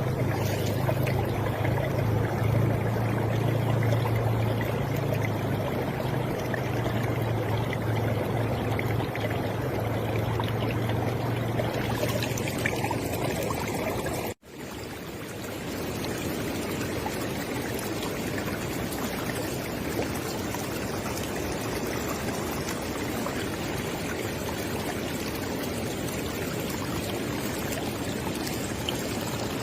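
River water flowing steadily, with a low rumble in the first part. About halfway through the sound cuts out for a split second and resumes as a smoother, even flow.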